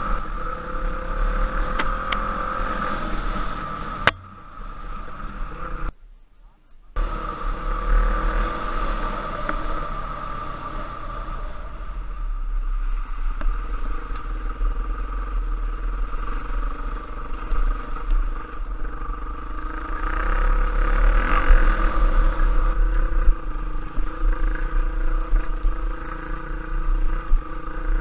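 Trail motorcycle engine running while riding, its note shifting a little with the throttle, with wind rumbling on the microphone. The sound drops out briefly about six seconds in.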